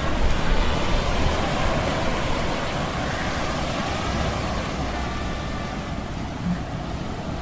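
Steady low hum of metal gears mixed with stormy sea sound effects: a continuous rushing of waves and wind, with faint wavering whistles now and then.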